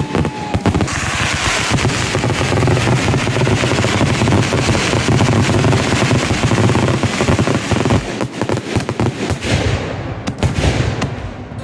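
Consumer fireworks going off in a dense, rapid barrage of bangs and crackles. The barrage thins to scattered separate reports in the last few seconds.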